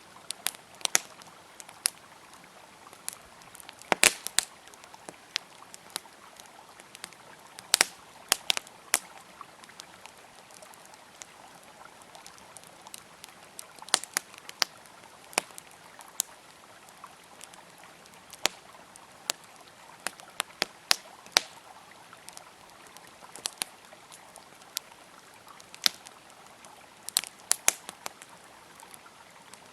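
Wood fire crackling with irregular sharp pops, several louder snaps among them, over the steady rush of a flowing river.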